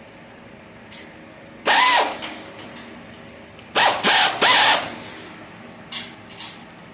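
A drill-type power tool run in short trigger bursts, its motor whine rising and falling: one burst about a second and a half in, then three quick bursts around four seconds, followed by a few light clicks near the end.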